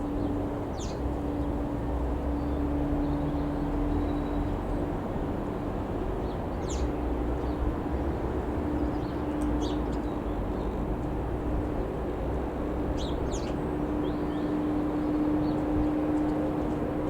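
A steady engine drone with a held hum that dips and returns, while small birds chirp briefly several times.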